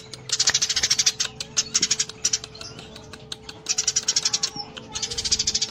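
Eurasian tree sparrows giving their rapid, harsh fight chatter in a series of short bouts, each a dense run of fast high notes, with brief pauses between bouts.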